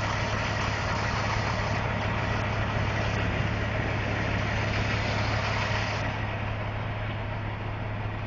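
Semi-truck diesel engine idling steadily: a constant low hum under a steady hiss, the hiss easing a little about six seconds in.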